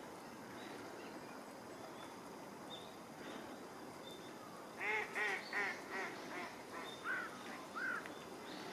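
A waterbird calls in a run of about eight short calls, each arching up and down in pitch, starting about five seconds in. Faint thin high bird chirps sound over quiet outdoor background noise.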